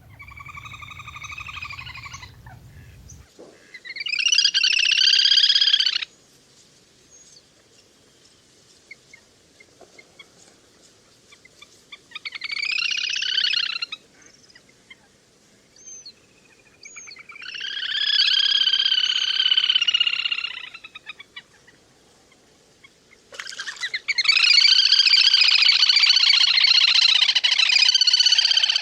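Little grebe (le le hôi) calls: five bouts of rapid, whinnying trills, each about two seconds long with short gaps between. The last bout, starting near the end, is longer and runs on.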